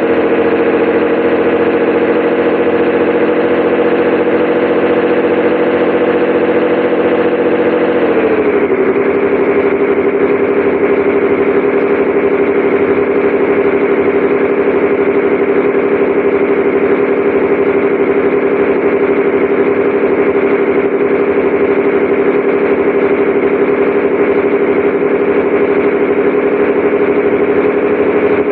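Scania 113H 360 truck's diesel engine running steadily; its note drops once about a third of the way in, as the engine speed falls, then holds steady at the lower pitch.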